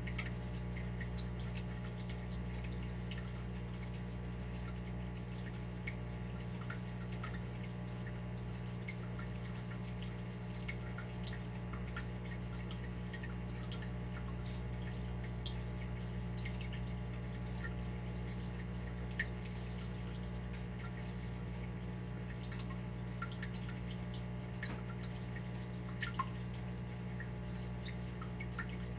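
Water dripping: scattered single drops at irregular intervals, over a steady low hum.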